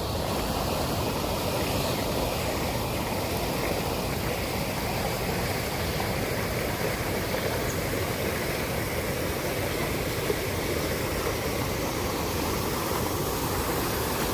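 Freshwater stream flowing: a steady rush of running water.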